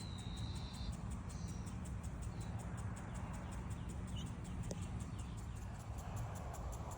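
Outdoor ambience: a steady low rumble with a few faint, short bird chirps, the clearest in the first second.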